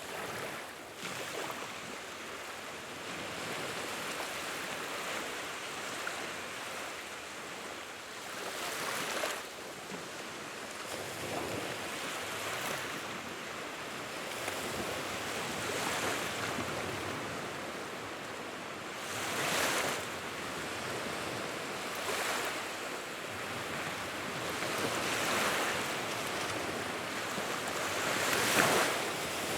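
Wood fire burning with a continuous hiss and crackle and occasional sharp pops. It swells louder in whooshes about a third of the way in, about two-thirds in, and near the end.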